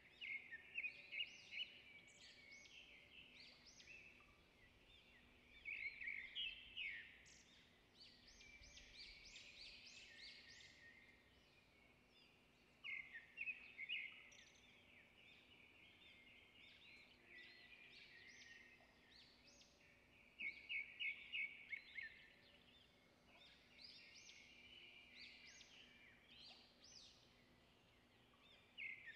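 Faint bird chirping in bursts of rapid, high chirps that recur every several seconds, over a faint steady hum.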